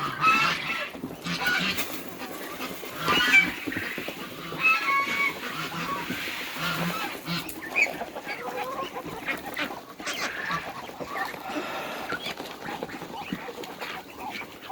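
Domestic geese and ducks honking and quacking over one another at feeding time: many short calls, with a few louder honks in the first few seconds.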